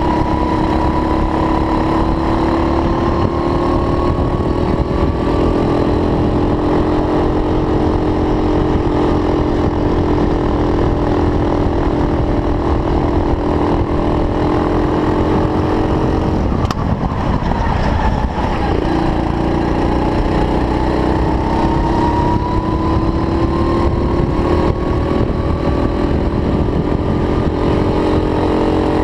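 Racing kart engine running hard, its pitch climbing slowly, then dropping sharply about seventeen seconds in and climbing again.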